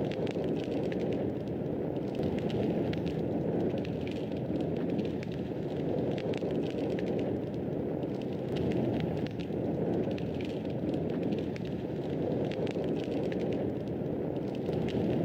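Fireplace fire burning: a steady low rush with frequent small, sharp crackles and pops.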